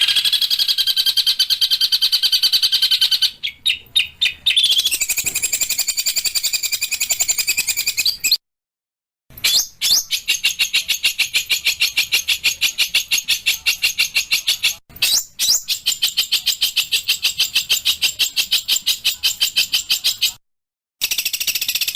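Small songbirds giving long, fast trills of sharp, high, evenly repeated notes, the 'tembakan' shooting calls used as masteran for training caged songbirds. The runs are edited together, with abrupt silent breaks about eight seconds in and again near the end.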